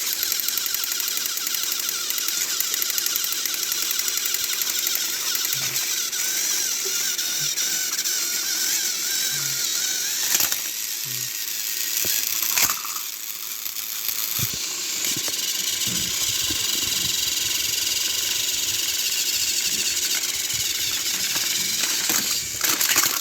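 Battery-powered Trackmaster toy train engines running, their small electric motors and gears whirring steadily, with two sharp clicks about ten and twelve seconds in.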